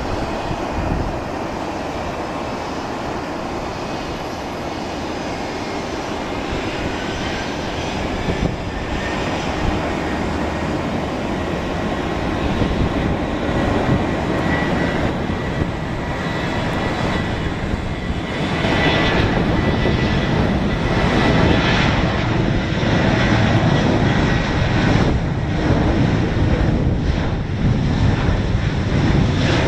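Boeing 737-700's twin CFM56-7B turbofan jet engines at takeoff thrust: a steady roar with a thin high whine, growing louder about two-thirds of the way through as the jet comes closer.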